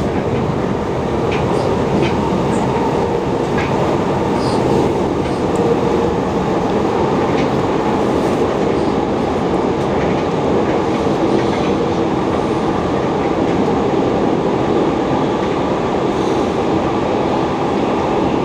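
Passenger train running, heard from inside the carriage: a steady rumble of wheels on track, with a few faint clicks in the first few seconds.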